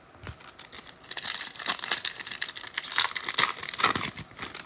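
Foil trading-card pack wrapper being torn open and crinkled by hand, a dense crackling that starts about a second in and dies away near the end.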